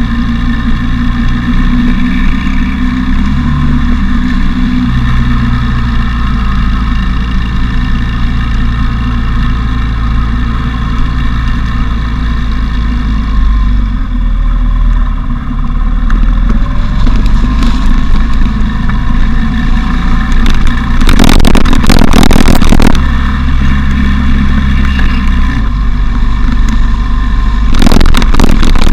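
A motorcycle engine running on the move, with the pitch shifting as it changes speed. Wind noise hits the camera's microphone because the bike has no windshield, and it swells into two loud rushes, one about two-thirds through and another near the end.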